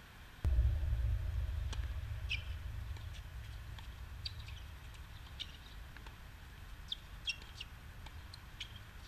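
Short high chirps of small birds scattered throughout. About half a second in, a sudden knock is followed by a loud low rumble that fades away over the next few seconds.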